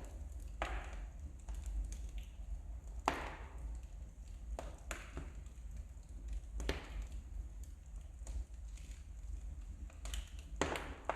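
Wood fire burning in a fireplace: logs crackling and popping in sharp, irregular cracks, with a few louder pops, over a steady low hum.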